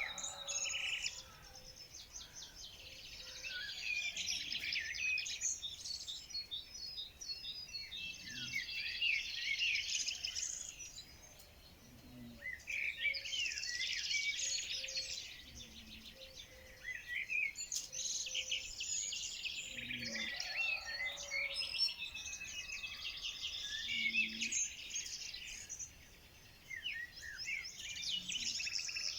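Several songbirds chirping and singing in overlapping bouts of quick, high trills and twitters, with short lulls between bouts.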